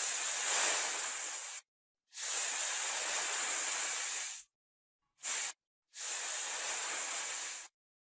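Snake hissing in four separate breaths: three long hisses of about two seconds and a short one in the middle, each cut off cleanly into silence.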